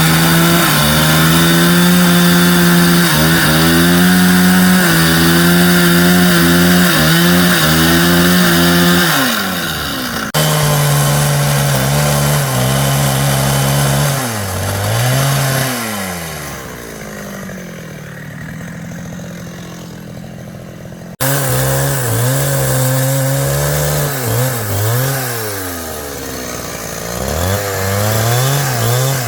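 Small engine of a power tool working wood, its pitch steady at first, then dipping and recovering again and again as it bites and is eased off. The sound breaks off suddenly twice, and it is softer for a few seconds before the second break.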